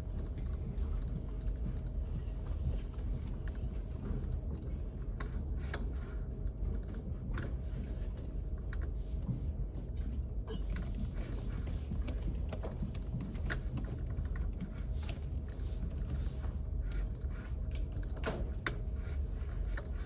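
Computer keyboard typing, irregular scattered key clicks over a steady low hum.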